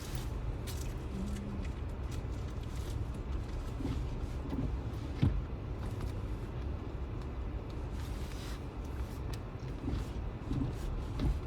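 Steady low rumble of a car driving, heard from inside the cabin, with a sharp knock about five seconds in.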